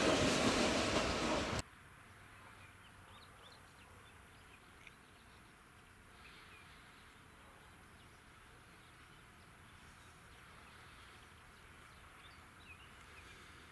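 Passing train rushing by loudly, cut off abruptly about a second and a half in. After that, quiet open-air ambience: faint scattered bird chirps over a low steady hum.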